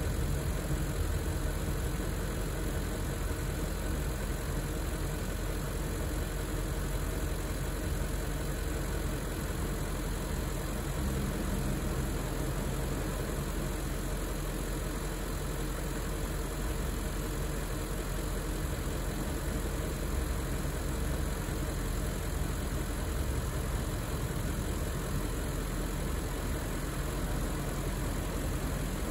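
BMW 740i E38's 4.4-litre V8 idling steadily while it warms up after a cold start.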